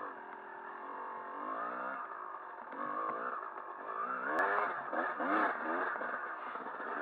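Dirt bike engine revving up and dropping back again and again as it rides a rough trail, with one sharp click about four seconds in.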